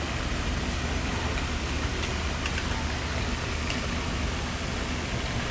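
Steady rushing of water from a man-made waterfall, an even noise with no letup.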